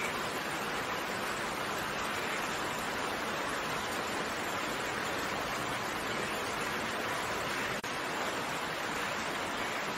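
Steady rain falling, an even, unbroken hiss of drops that dips for an instant about three-quarters of the way through.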